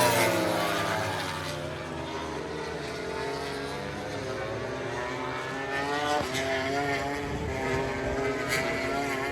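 MotoGP racing motorcycle engines on track. One bike's engine falls in pitch and fades as it goes past and away, then from about six seconds in another bike's engine comes in, its pitch wavering with the throttle.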